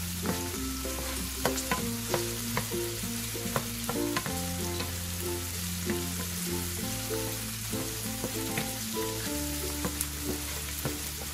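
Shrimp, onion and garlic sizzling in oil in a nonstick frying pan, stirred with a wooden spoon that gives many short clicks and scrapes against the pan, with background music playing.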